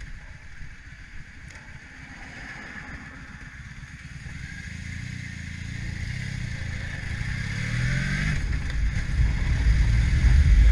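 Motorcycle running, its engine and rumble growing steadily louder, the engine pitch rising near the end.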